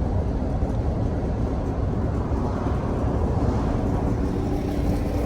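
A steady low vehicle rumble, with a faint steady hum joining it about halfway through.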